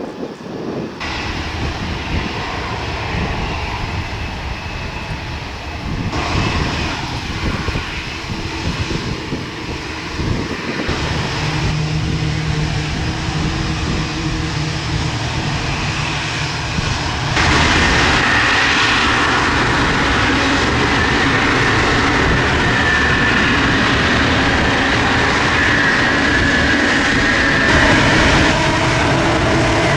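Boeing 787-8 Dreamliner's jet engines running with a steady whine. The sound gets louder from about 17 seconds in and stays loud.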